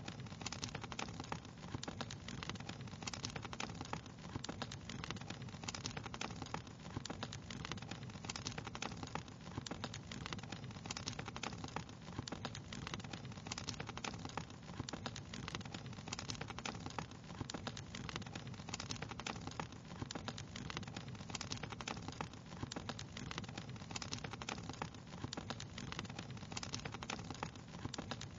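Wood fire crackling: many small, irregular pops and snaps over a steady soft hiss.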